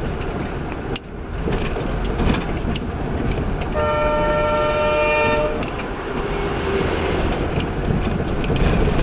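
A car driving on a rough road, with a steady rumble of tyres and engine and scattered knocks, while a vehicle horn sounds once for about two seconds around the middle.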